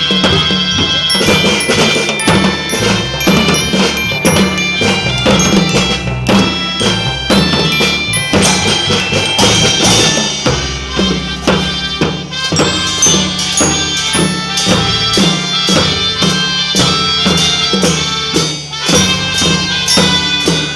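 Kindergarten children's marching band playing a tune: drums keep a steady, closely spaced beat under bright sustained melody notes.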